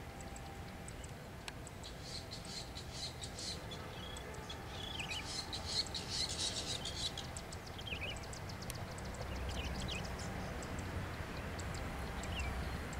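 Small birds chirping and trilling in quick runs of high notes, busiest around the middle, over a low steady background rumble.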